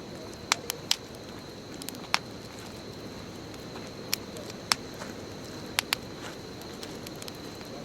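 Wood bonfire crackling: irregular sharp pops and snaps, several close together in the first second and again a little before six seconds in, over a low steady rush of burning. A faint steady high whine sits underneath.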